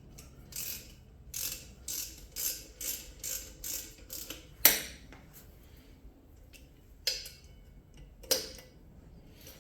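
Hand ratchet wrench turning bolts in short back-and-forth strokes, its pawl clicking about twice a second. A single sharp, loudest click comes a little under five seconds in, with a couple of lighter clicks later.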